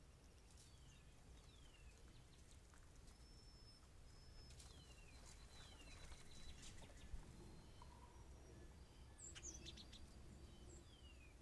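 Faint songbird calls: several short downward-sliding whistles and a few thin high notes, over a low steady background rumble, with a few faint clicks.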